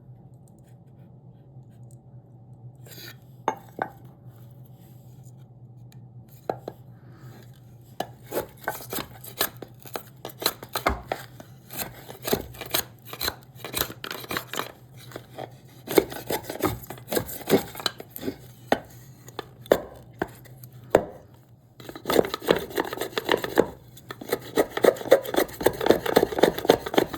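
A hand tool cutting and scraping a piece of cherry wood in quick, repeated strokes. The strokes start sparse a few seconds in and become dense and continuous toward the end. A faint steady hum runs underneath.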